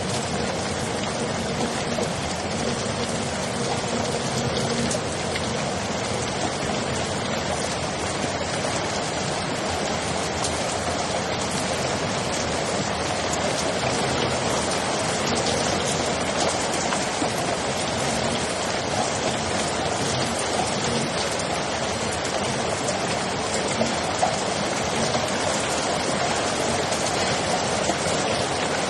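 Steady rain falling: an even hiss of drops, with a few louder single drops in the last few seconds.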